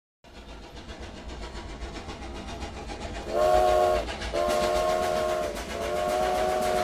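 Train running on the rails with a low rumble and clatter, then its chime whistle sounds a chord of several notes, three blasts starting about three seconds in, the first short and the next two longer.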